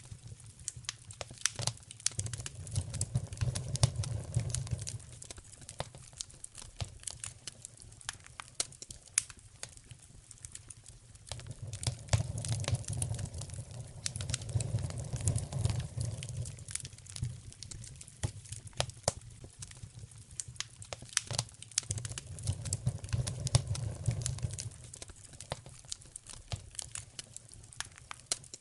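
Wood fire crackling in a fireplace, with a steady stream of sharp pops and snaps. A low rumble swells and fades three times.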